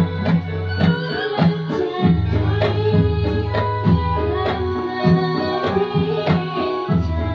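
Javanese dolalak music: hand drums and frame drums beat a steady rhythm, about two strokes a second, over sustained melodic tones and a bass line.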